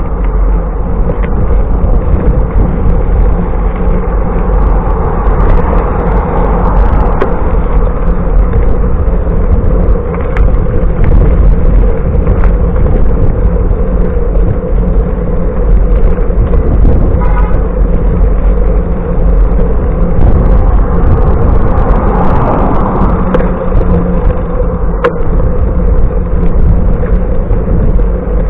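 Steady wind noise on the microphone and road noise while riding a bicycle among traffic.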